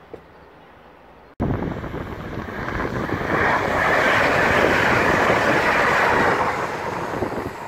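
Faint outdoor quiet, then from about a second and a half in a ScotRail Class 380 electric multiple unit passing close by: a steady rush of wheels on rail and air that builds to a peak and eases off near the end, with wind on the microphone.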